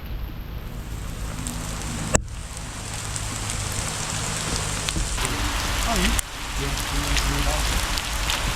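Steady rain falling, an even hiss with scattered sharper drop ticks, briefly cut off twice.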